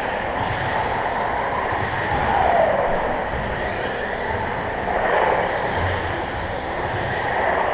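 1/10-scale electric RC stadium trucks racing on an indoor carpet track: a steady din of motors and tyres, with whines that fall in pitch as trucks pass, about two, five and seven seconds in.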